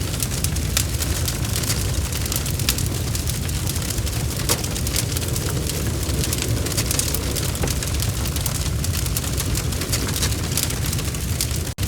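Wood fire burning in a fireplace: a steady low rumble of flames with many sharp crackles and pops from the burning logs. The sound cuts out for an instant just before the end.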